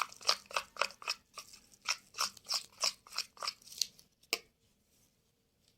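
A spoon stirring a thick, wet homemade cream mixture in a bowl, in quick repeated scraping strokes about four a second, ending with a sharper knock after about four seconds.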